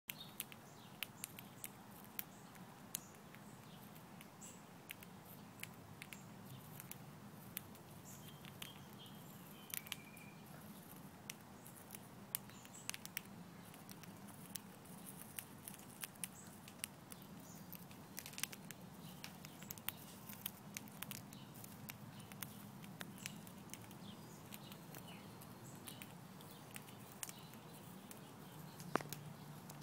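Cockatiels cracking and husking millet seeds in their beaks: irregular, sharp little clicks and cracks, several a second, over a faint steady low hum.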